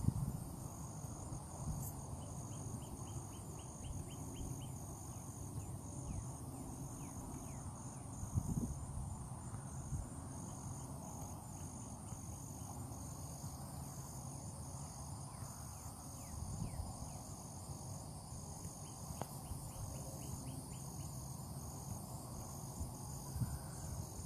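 Insects, crickets or katydids, chirring steadily in a high, evenly pulsing trill. Several times a quick run of short, higher chirps comes in over it. Underneath is a low rumble of wind on the microphone.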